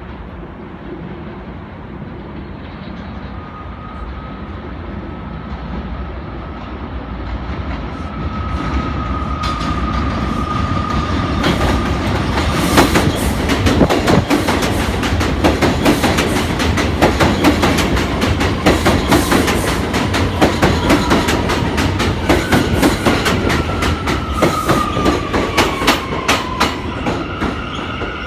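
New York City subway train on the J/M line coming closer and running past, growing louder, its wheels clacking rapidly over rail joints. A thin wheel squeal rides along and slides down in pitch near the end.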